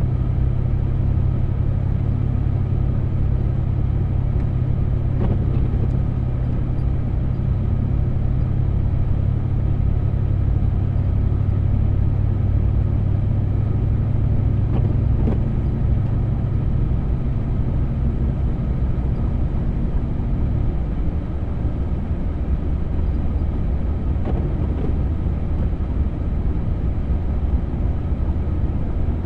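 A vehicle driving through deep snow: a steady low engine and road drone that drops lower and eases a little about two-thirds of the way through.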